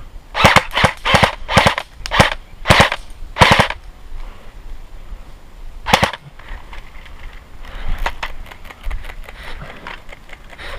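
Airsoft guns firing: a quick string of about seven sharp shots in the first few seconds, one more about six seconds in, then fainter rapid clicking near the end.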